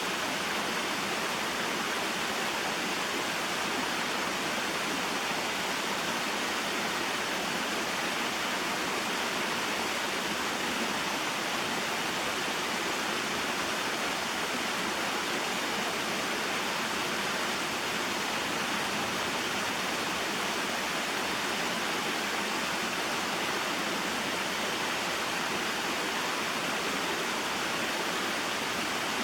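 Small waterfall and mountain stream: water falling and flowing over rocks in a steady rushing noise.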